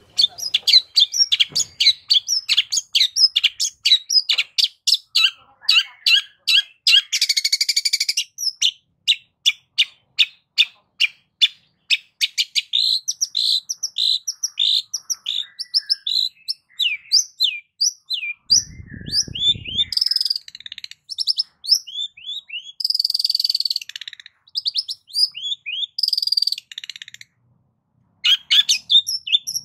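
Long-tailed shrike (cendet) singing a fast, varied song full of mimicked notes: quick runs of short sharp chips and whistles, broken by harsher buzzy phrases. About two-thirds of the way through there is a brief low rasping sound.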